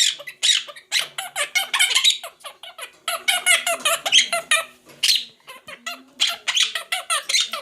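Parrot squawking and chattering in a rapid string of short, harsh, high-pitched calls, with brief pauses between runs.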